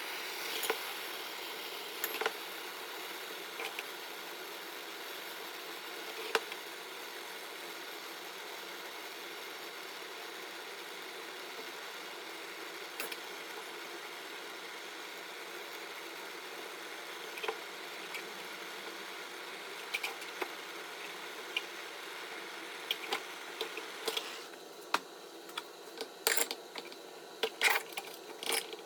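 Scattered small clicks and knocks of tools and parts being handled over a steady background hiss, turning into a quick run of metallic clinks in the last few seconds.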